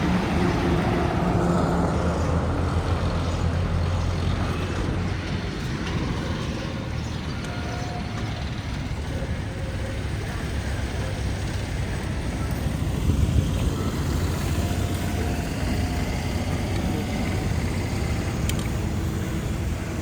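Hero Honda motorcycle's single-cylinder engine running steadily with a continuous low drone. This is the engine sound the owner treats as a fault.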